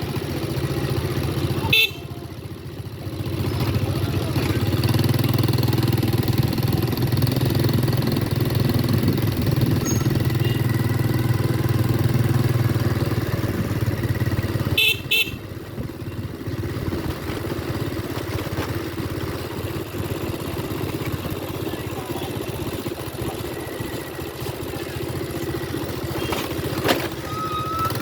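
Motorcycle sidecar taxi's engine running under way, a steady low hum that is louder through the middle stretch. Sharp clicks, each followed by a dip in level, come about two seconds in and again about fifteen seconds in.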